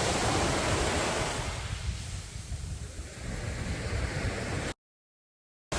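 Sea waves breaking and washing up a beach: one wash surges in and fades, a second builds, then the sound cuts out completely for about a second near the end.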